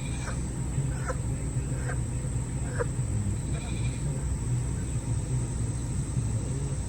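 Cornish Cross meat chicken giving several short squawks in the first three seconds and a fainter call a little later as it is killed in the cone, over the steady low rumble of a gas burner heating the scald pot.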